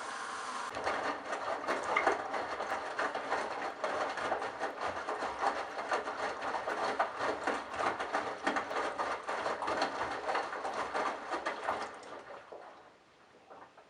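Candy Bianca washing machine running: a steady motor hum, then from about a second in a dense, irregular rattling and spattering of water and wet laundry for about eleven seconds, which fades out near the end.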